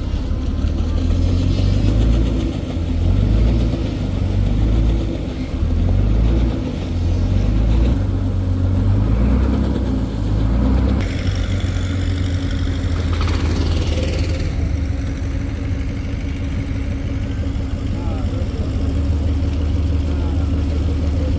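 An engine running with a low rumble and a steady hum, its level rising and falling over the first half and steadier after a sudden change about eleven seconds in. Voices can be heard in the background.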